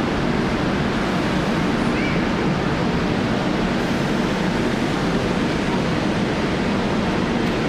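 Steady, dense city rumble with a low hum underneath, with no single event standing out.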